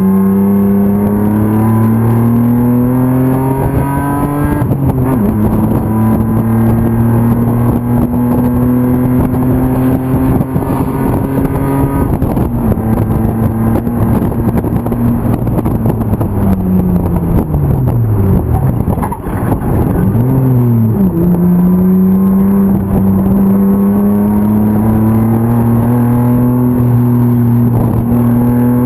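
BMW M50 inline-six racing engine under hard acceleration, revs climbing with an upshift about four seconds in. Past halfway the revs fall off as the car slows for a corner, with quick throttle blips on the downshifts, then the engine pulls up through the revs again.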